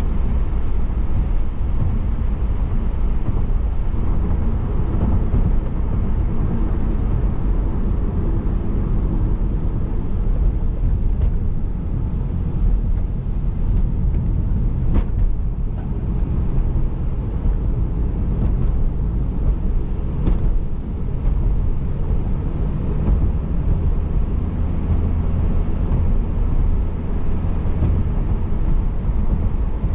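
Steady tyre and road noise of a car driving on wet pavement, heard from inside the car: a continuous low rumble with a few faint ticks.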